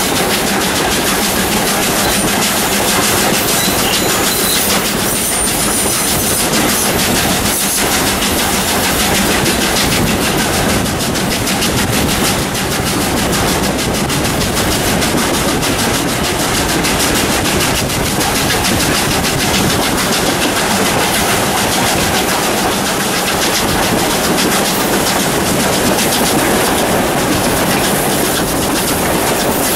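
Steam-hauled train running at speed, heard from an open carriage window: a steady rumble of the carriages with wheels clicking over the rail joints.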